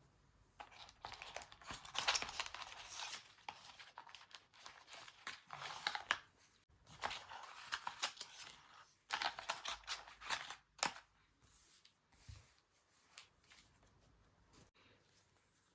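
Paper and sticker sheets crinkling and tearing close up, in four bursts over about ten seconds, then only faint taps and rustles near the end.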